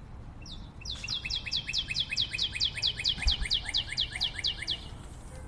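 A songbird singing a fast trill of short, falling whistled notes, about seven a second, starting about a second in and stopping near the end.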